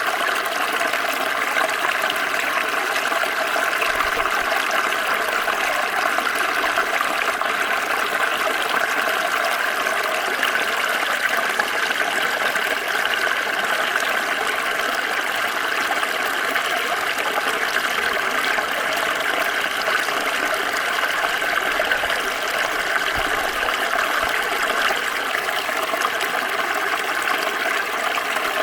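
Small stream flowing, a steady rushing and splashing of water over stones.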